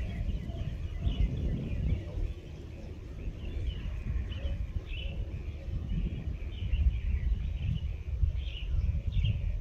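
Small birds chirping in many short, repeated calls, over a steady low rumble.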